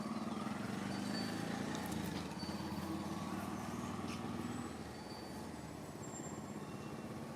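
A motor vehicle engine running with a steady low hum, dropping in level about two-thirds of the way through.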